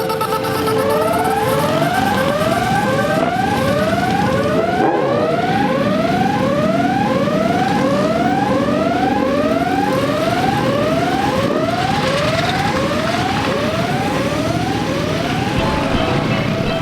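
A siren sounding a rapid series of short rising sweeps, each cut off sharply and repeated about twice a second, over the steady running of many motorcycle engines.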